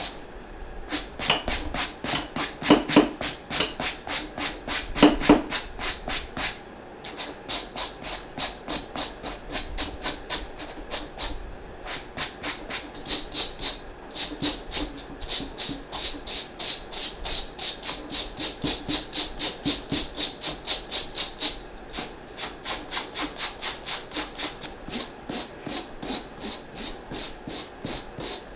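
Suede brush scrubbing a sneaker's suede upper in quick, even back-and-forth strokes, about three a second, with a few short pauses. A few heavier strokes land in the first several seconds.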